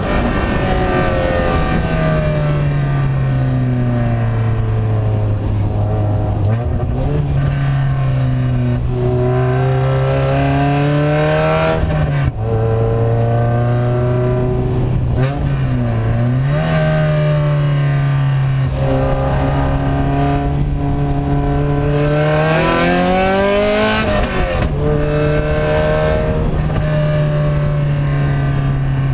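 Loud vehicle engine with an open, unsilenced exhaust, driven along with its revs holding steady, climbing and then dropping sharply several times as it shifts gear.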